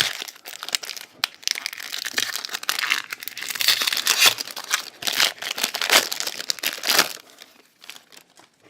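Foil trading-card pack wrapper being crinkled and torn open by hand: a run of dense crackling rustles that dies away about a second before the end.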